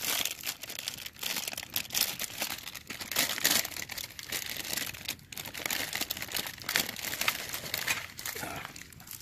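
Plastic instant-ramen packets being crinkled and torn open: a continuous run of sharp little crackles and rustles.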